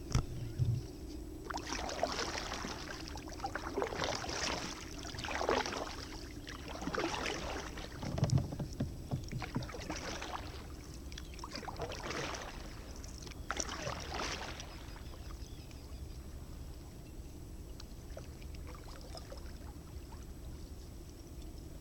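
Kayak paddle strokes splashing in the water, a stroke every second or two, which stop about two-thirds of the way through, over a steady low background rumble.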